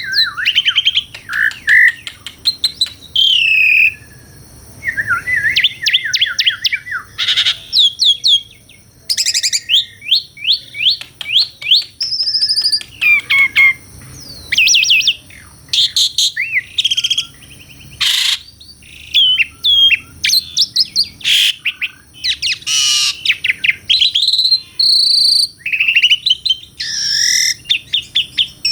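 Asian pied starling (jalak suren) singing a long, varied song of whistles, rising and falling notes and fast chattering rattles, in phrases broken by short pauses.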